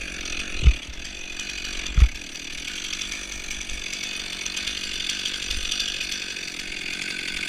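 Chainsaw running steadily, with two dull low thumps, one under a second in and the other about two seconds in.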